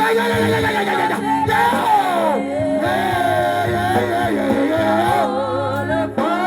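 Gospel worship music: a voice sings a long, wavering melody without clear words over steady held chords.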